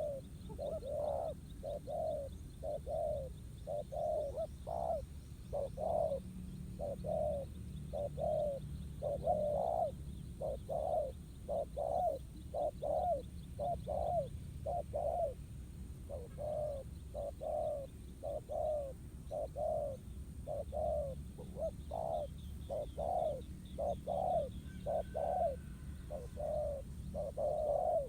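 Spotted doves cooing in a dense, unbroken run of short low coos: a decoy and a wild dove answering each other in a territorial cooing contest. Faint chirps of small birds sound high above at the start and again near the end.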